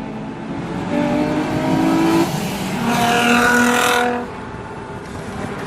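Car engines revving hard twice as they go by. The first rev comes about a second in and climbs a little in pitch; the second, from about three seconds to four seconds in, is higher and louder and then drops away.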